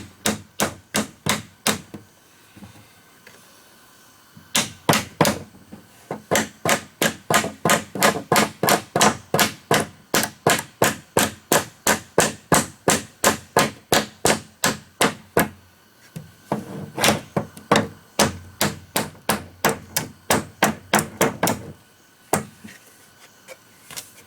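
Rapid, regular hammering blows on wood, about four a second, in three long runs broken by short pauses, with a few last blows near the end.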